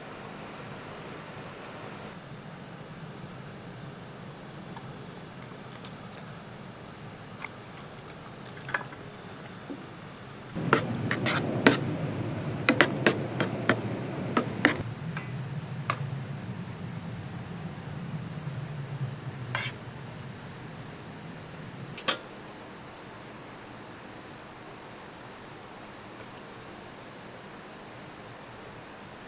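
Insects chirping in a steady, pulsing chorus. About a third of the way in, a stretch of handling noise with a dozen sharp clicks and knocks begins, louder than the insects, and ends with a single knock.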